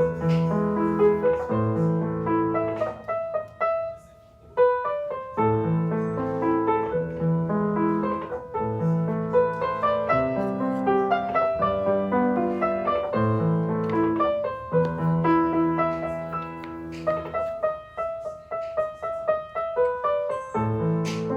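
Background music: a gentle piano piece of sustained chords and melody, with a brief pause about four seconds in.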